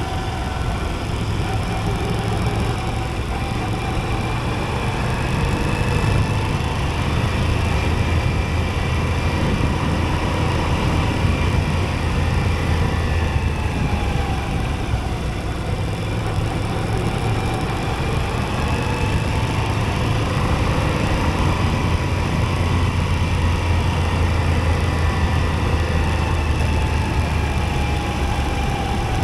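Moto Guzzi V85TT's air-cooled transverse V-twin engine running steadily under way, a low rumble whose pitch rises and falls gently with the throttle through the bends.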